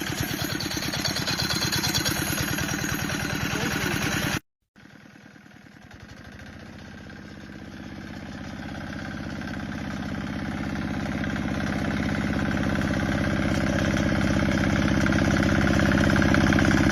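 Tractor's diesel engine running with a steady, evenly spaced beat. The sound cuts out abruptly about four seconds in, then returns much quieter and grows steadily louder.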